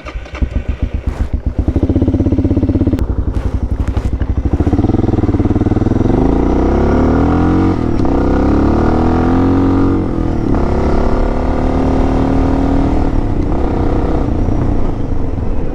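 Suzuki DR650 single-cylinder engine starting and running with an even, pulsing beat, then pulling away, its pitch rising through the gears with shifts about halfway through and again a few seconds later.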